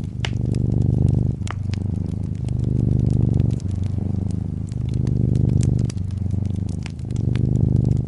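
A brown tabby cat purring, louder and softer in a slow cycle of about two seconds, with fireplace fire crackling in sharp pops over it.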